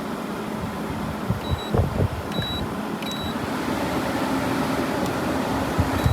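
A 2001 Kenmore (WCI-built) 8,000 BTU room air conditioner running with a steady blowing noise, its electronic control panel beeping four short times, with a few low knocks. A low hum comes in a little after the middle.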